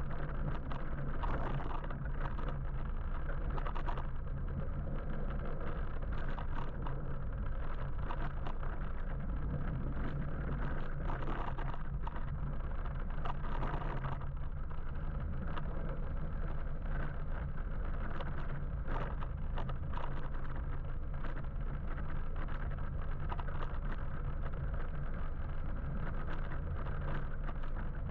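Steady road and wind noise from riding an electric motorbike through city traffic, with a constant low hum and scattered faint clicks.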